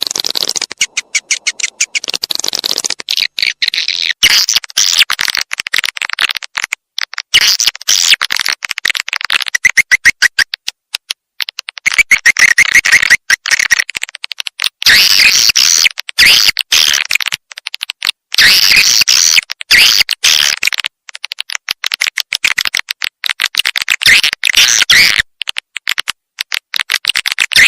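Swiftlet calling sound of the kind played to lure swiftlets into a nesting house: rapid, dry chittering trills, high-pitched, coming in bursts of one to a few seconds with short breaks between them.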